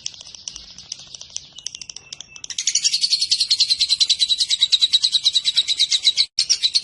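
Lovebird chattering: softer quick chirps, then about two and a half seconds in a long, loud 'ngekek' of fast, evenly repeated shrill notes, broken briefly near the end and resuming.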